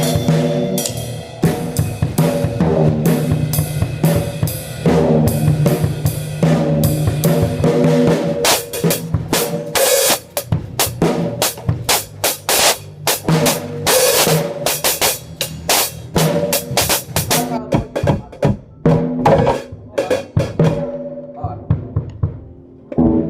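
Rock drum kit played loudly, snare, bass drum and cymbals together, over held notes from amplified guitar. The cymbal crashes come thick from about eight seconds in until nearly eighteen, then the playing thins out to scattered hits near the end.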